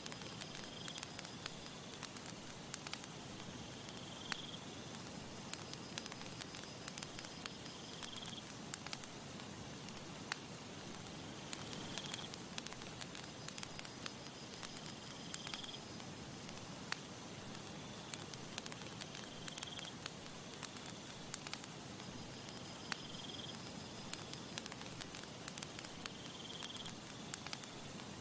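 Campfire crackling, with frequent sharp pops and snaps over a soft steady hiss. A short high-pitched chirp repeats about every four seconds.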